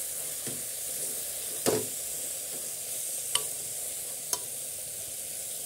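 Tomatoes, potatoes and aubergine sizzling steadily as they fry in an open pressure cooker, stirred with a metal ladle that clinks against the pot three times. The loudest clink comes about a second and a half in.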